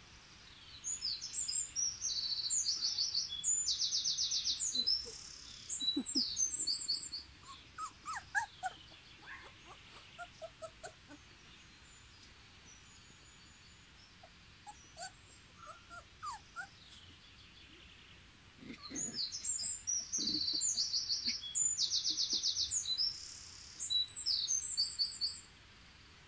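A songbird sings a long, high, fast trilling song twice: once about a second in, and again about two-thirds of the way through. Between the songs come short, soft sliding squeaks and whimpers from the border collie puppies.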